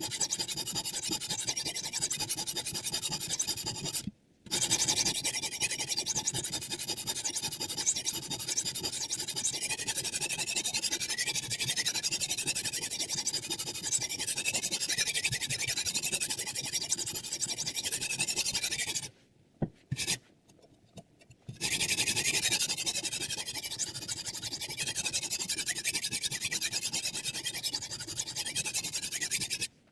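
Sharpening stone scraping along the steel edge of a chef knife in a guided sharpener. It stops sharply for a moment about four seconds in and for about two seconds around twenty seconds in.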